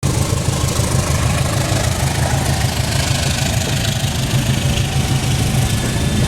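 Diesel locomotive engine running steadily, with a low, even throb under a constant hiss.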